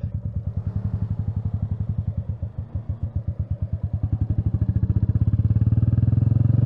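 Royal Enfield Meteor 350's single-cylinder four-stroke engine idling with an even beat, then revs rising slightly and growing louder from about four seconds in.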